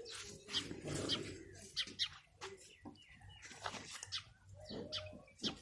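Baby birds in the nest chirping: many short, high chirps in quick, uneven succession.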